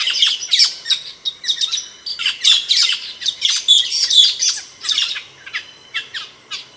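Camperling bird singing: a fast, chattering run of sharp, high chirps that each sweep downward in pitch.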